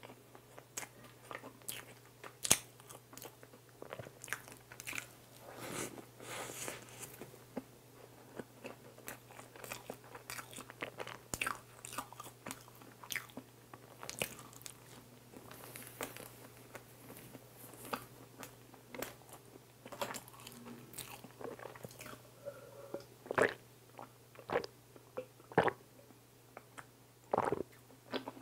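Close-miked chewing and wet mouth sounds of soft cream bun dipped in warm whipped cream: irregular smacks and clicks, with a low steady hum underneath.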